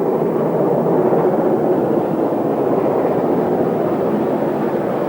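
GWR Manor-class 4-6-0 steam locomotive Hinton Manor running with its train, giving a steady, loud rumble with no distinct beats.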